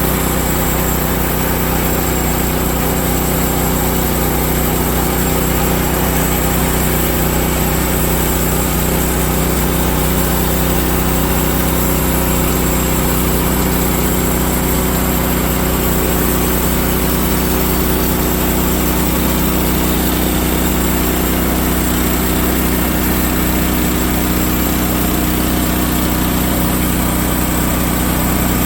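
Woodland Mills HM130Max portable bandsaw sawmill running, its gas engine holding one steady pitch with no change in speed or load.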